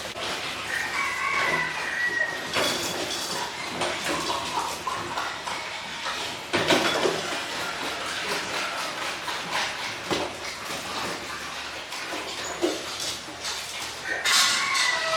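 Pigs squealing in short high calls, once early on and again near the end, among scattered knocks and clatter.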